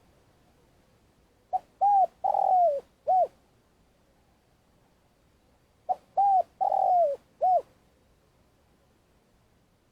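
Spotted dove, a decoy bird, calling its long cooing song. It gives the same four-note phrase twice, about four seconds apart: two short coos, a longer falling coo, then a short final coo.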